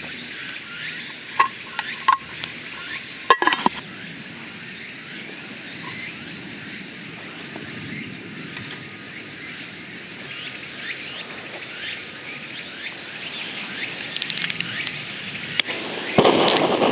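Steady outdoor background hiss with a few sharp clicks or cracks in the first few seconds. A louder rushing noise starts near the end.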